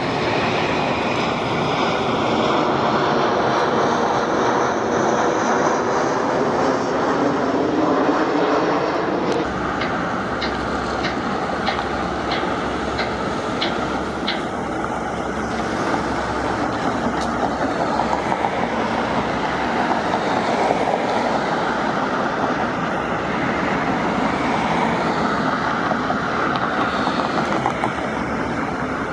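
Jet aircraft passing low overhead, its whine gliding down in pitch over the first nine seconds, then a steady rumble with a quick run of light ticks near the middle.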